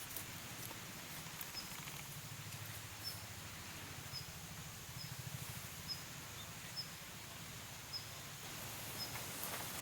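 Outdoor ambience: a steady low rush with a short, high chirp repeated about once a second, and a few faint crackles near the end.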